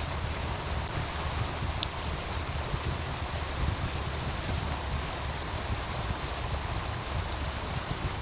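Meltwater stream running with a steady rushing wash and a low rumble, with a few sharp pops from a crackling wood fire.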